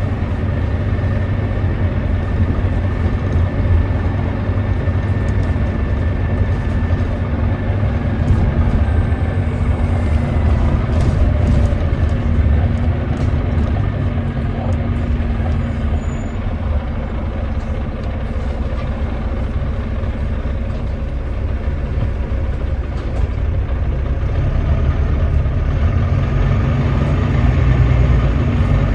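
Volvo D9B 9.3-litre diesel engine of a Volvo B9TL double-decker bus running steadily under way, a deep rumble with faint whining tones that slide up and down in pitch; the uploader labels this engine as misfiring and thrashing.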